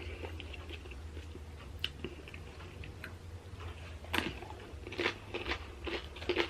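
Close-up chewing and crunching of tortilla chips in a nacho salad, irregular crisp crunches with a cluster of sharper ones from about four seconds in.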